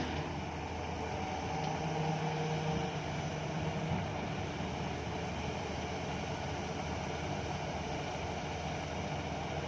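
Heavy diesel machinery running steadily: an excavator and a dump truck working through a coal loading. A low hum swells briefly a couple of seconds in.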